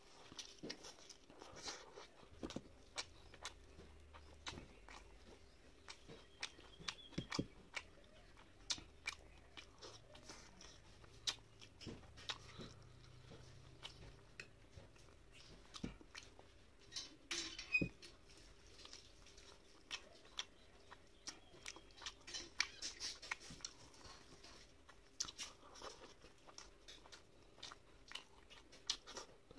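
Close-up eating sounds of someone eating rice, fish curry and omelet by hand: chewing and wet mouth smacks, with fingers squishing rice against a steel plate, making many small irregular clicks.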